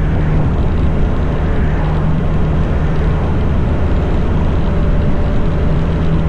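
Motorcycle engine running at a steady road speed, its low drone under heavy wind rush on the microphone.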